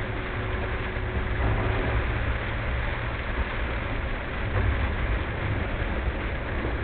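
Steady driving noise of a car, played at double speed: a low rumble with an even hiss over it and no sudden events.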